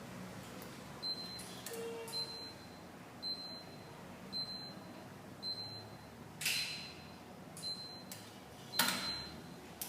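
Remote-controlled gas fireplace control unit beeping: short, high, evenly spaced beeps about once a second, with a few sharp clicks in between, the loudest near the end.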